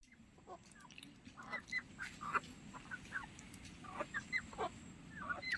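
Birds calling: many short, hooked chirps scattered through, several a second, over a faint background hiss.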